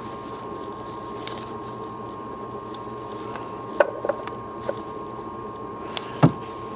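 Scattered clicks and knocks of plastic parts as a new EVAP purge valve and its quick-connect hose are handled and fitted, over a steady background hum. A cluster of light clicks comes about halfway through, and a sharper knock near the end.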